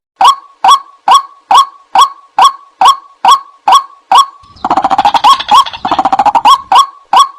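White-breasted waterhen calls from a lure recording: a loud, honking note repeated about twice a second. About four and a half seconds in, a rapid chattering run of notes takes over for about two seconds, then the evenly spaced notes resume.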